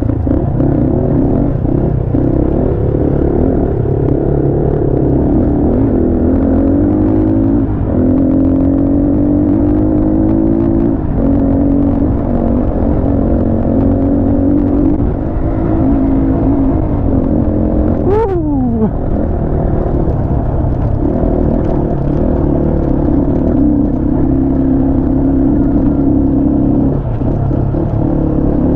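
250 cc motorcycle engine running under way, its pitch stepping up and down with throttle and gear changes. About two-thirds of the way through there is a sharp click and the revs fall quickly.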